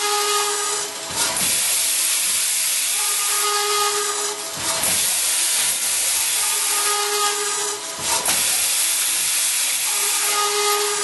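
SIMEC Ciclomec 1000 2R twin-head automatic circular saw running a cutting cycle on metal tube, a loud steady hiss with a ringing tone that comes back about every three and a half seconds as cut follows cut.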